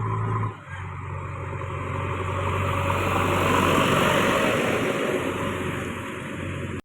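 Diesel engine of heavy machinery running with a steady low hum, while a rushing noise swells to a peak midway and then eases. The sound drops out briefly about half a second in.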